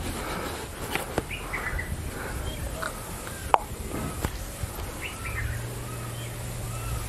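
Birds chirping and calling in short repeated notes, with a few sharp clicks, the loudest about three and a half seconds in.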